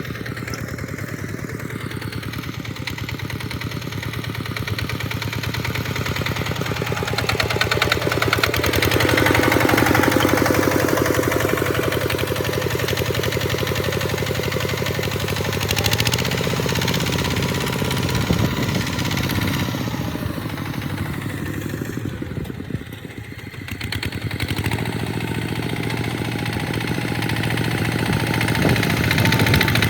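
Tractor engine running steadily under load while plowing sand, getting louder about a third of the way in and dipping briefly past two-thirds before picking up again.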